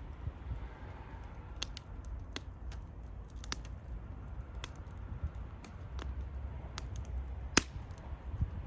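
Wood fire crackling, with scattered sharp pops, the loudest about three-quarters of the way through, over a steady low rumble.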